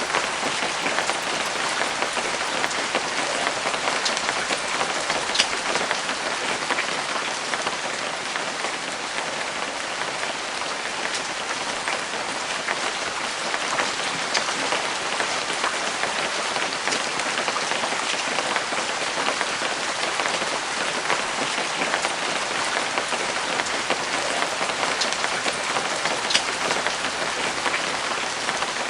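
Steady rain falling, an even patter with scattered sharper drop hits.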